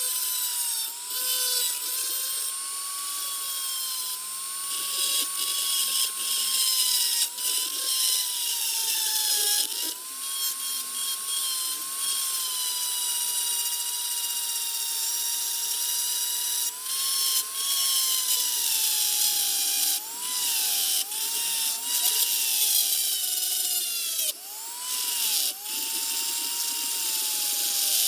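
A small high-speed electric power tool running steadily, its whine sagging in pitch and recovering several times as it is pressed into the work, with short breaks.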